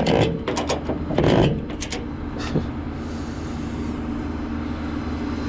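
Flatbed tow truck's engine running steadily, after a few clicks and knocks in the first two seconds.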